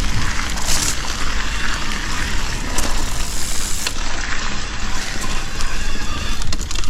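Mountain bike tyres rolling over a gravel single-track trail, a steady crunching hiss with scattered sharp clicks and rattles from the bike, over a low rumble of wind on the microphone.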